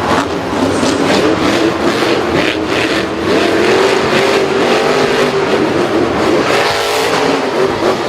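A racing vehicle's engine held at steady high revs, its note wavering up and down, with short hissing bursts in the first few seconds.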